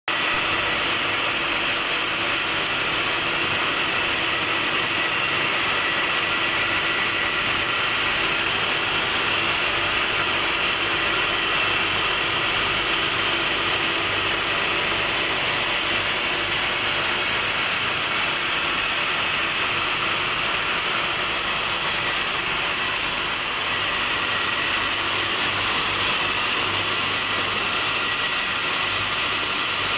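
PVC extrusion machine running steadily: a constant mechanical din with a steady high whine and a low hum.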